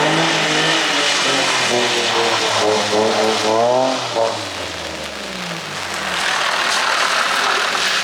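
Car engine revving hard during a drift, its pitch wavering up and down with the throttle, then falling away about four seconds in. A rushing hiss of tyres and spray takes over near the end.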